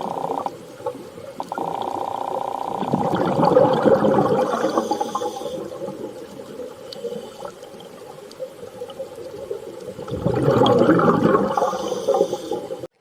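Water rushing and splashing, swelling in two louder surges, one a few seconds in and one about ten seconds in, with a steady tone at the start; the sound cuts off abruptly just before the end.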